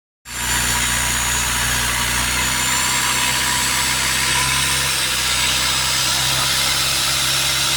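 A boat's engine running steadily, with a constant low hum and a faint high whine. It starts abruptly just after the opening.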